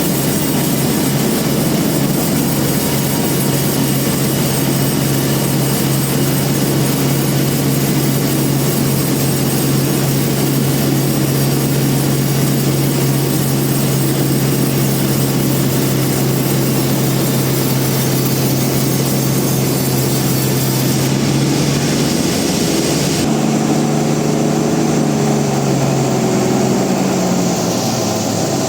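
Band sawmill machinery running with a loud, steady hum. In the last few seconds the hum breaks into several tones that slide down in pitch.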